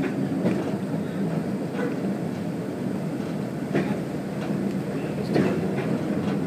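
A railbus running along the line, heard from on board: a steady low engine and running drone with a few sharp clicks from the wheels, about two seconds apart.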